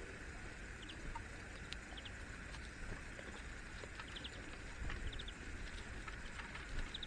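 Birds calling: short high chirps in quick groups of two to four, repeated every second or so, with scattered faint ticks over a steady hiss of outdoor background.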